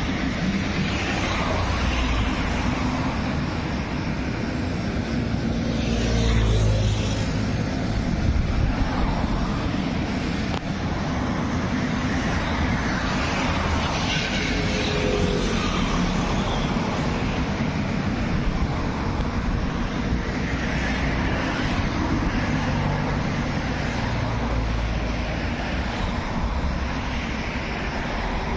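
Continuous urban road traffic noise, vehicles passing with a steady rumble that swells now and then.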